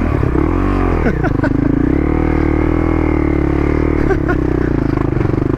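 Dual-sport motorcycle engine running under throttle, its revs rising and falling as the bike is ridden, with a few sharp clicks.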